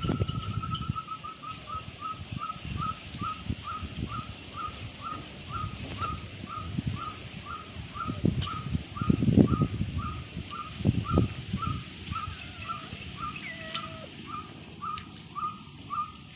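A bird calling one short note over and over, about one and a half times a second, with faint high chirps behind it. Irregular low rumbles and thumps come and go, loudest in the middle.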